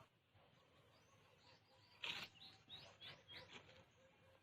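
Faint bird chirps: a quick run of short calls starting about two seconds in.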